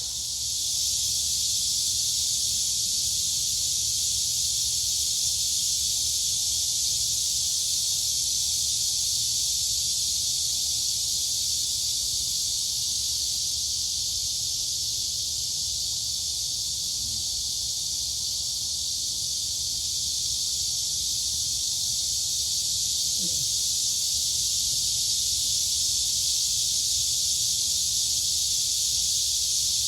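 Dense, steady chorus of crickets and cicadas, a continuous high shrill hiss with no breaks.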